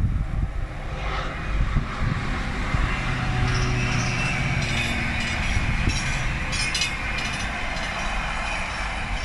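A container freight train hauled by a Class 66 diesel locomotive passing: a steady rumble and rattle of wagons running over the rails, with a low engine hum for a few seconds and scattered sharp wheel clicks.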